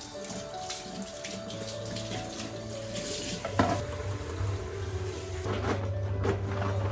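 Water running from a tap into a sink, with a sharp knock about three and a half seconds in and a few lighter knocks near the end.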